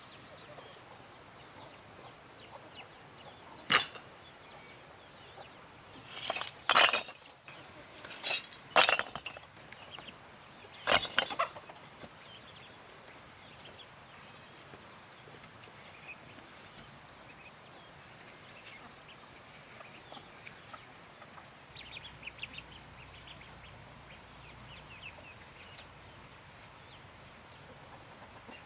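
A handful of sharp knocks or strikes, some single and some in quick clusters, in the first half. Behind them is a faint outdoor background of chickens clucking and a steady high insect hum.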